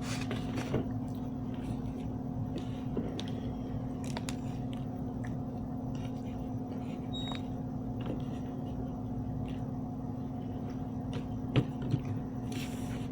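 Chewing and eating sounds, with scattered small clicks and two sharper clicks near the end, over a steady low hum.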